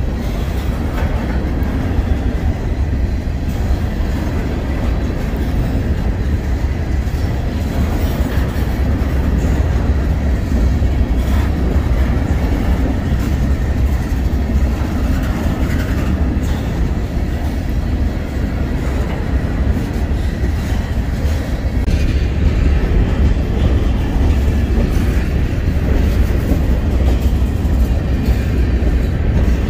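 Loaded covered hopper cars of a grain train rolling steadily past at close range: a continuous heavy rumble with the wheels clacking on the rails.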